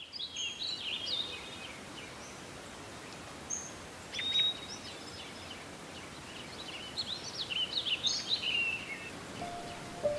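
Small birds chirping and twittering in short bursts over a faint steady hiss, with music notes coming in near the end.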